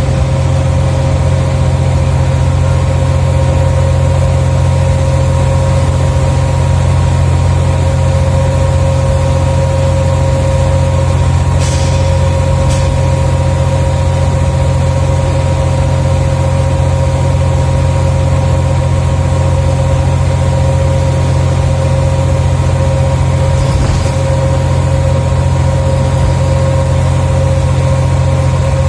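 Scania OmniCity bus engine heard from inside the bus, running steadily at a constant pitch with a steady whine and no revving. There are two short high hisses about twelve seconds in.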